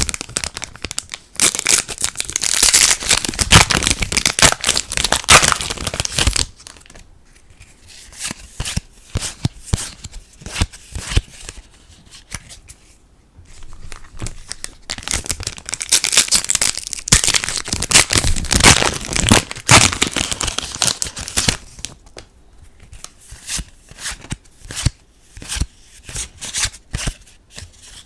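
Foil booster packs being torn open and crinkled in two long loud stretches, about a second in and again midway. Between them come quieter clicks and rustles of trading cards being handled.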